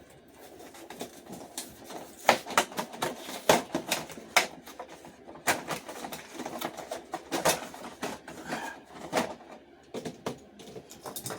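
Plastic blister packaging on a diecast car 2-pack being worked open by hand: irregular crackling and sharp clicks of plastic and card, one side opened at a time.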